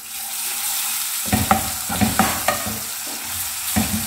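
Ginger-garlic paste sizzling in hot oil with browned onions in a metal pot. It hisses steadily from the moment it goes in. A spoon stirs and scrapes the pot in a few short strokes from about a second in.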